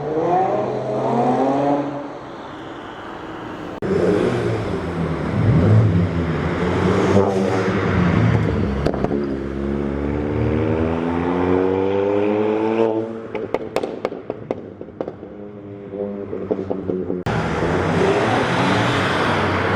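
Cars driving off one after another, engines revving. In the middle one engine's pitch climbs steadily as it accelerates away, then scattered crackles follow. Near the end a car passes with tyre and engine noise.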